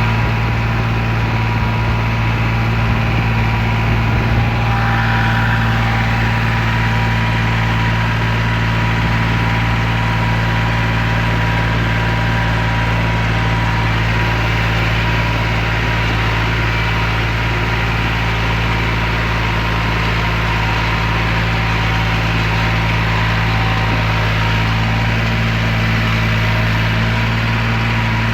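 New Holland 3630 tractor's diesel engine running at a steady speed, a constant drone that neither revs up nor dies down.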